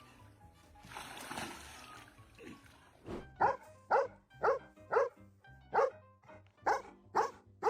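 A dog barking repeatedly, about two sharp barks a second, starting about three seconds in, over background music.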